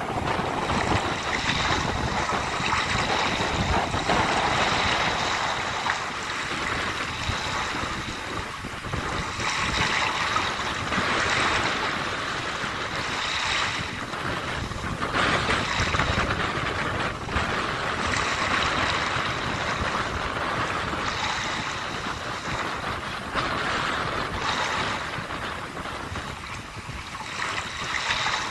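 Sea waves washing onto the shore, the surf swelling and easing every few seconds, with wind rumbling on the microphone.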